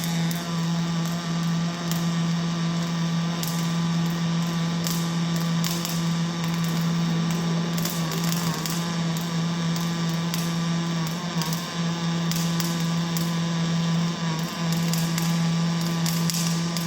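Robotic arc welding: a steady buzzing hum with irregular crackling from the arc, briefly dropping out a few times.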